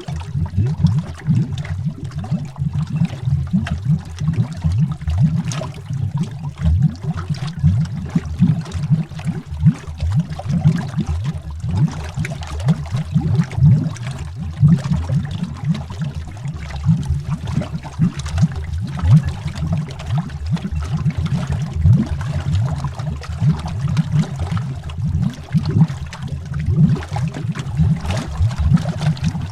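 Underwater bubbling: a continuous stream of rapid, deep bubble pops and gurgles.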